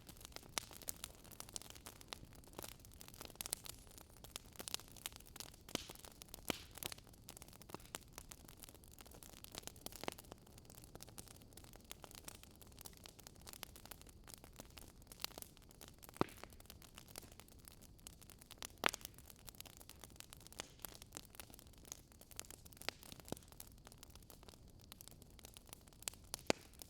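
Fireplace crackling: a low steady hiss with irregular sharp pops and snaps, a few of them louder, scattered throughout.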